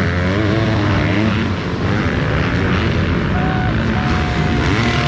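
Motocross dirt bike engines revving hard, pitch repeatedly rising and falling as the riders work the throttle and shift, with more than one bike heard at once.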